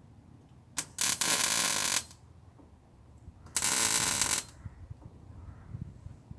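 MIG welder arcing in two bursts of about a second each, some two and a half seconds apart: tack welds on a new steel sill section.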